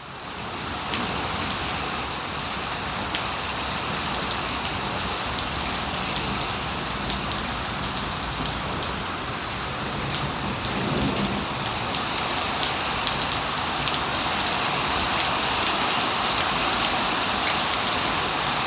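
Heavy rain pouring down steadily, a dense hiss of drops hitting surfaces, swelling in the first second and then holding even.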